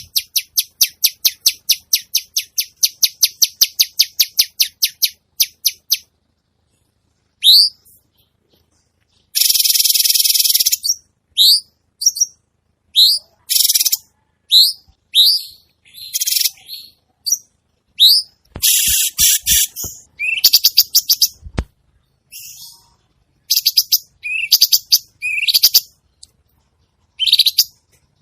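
Songbird calls from a harsh-phrase bird-song training recording. A fast run of high chips at about five a second lasts some six seconds. After a silent break come short upward-sweeping whistles, a harsh buzzing phrase about ten seconds in, and choppy chattering phrases that start and stop abruptly.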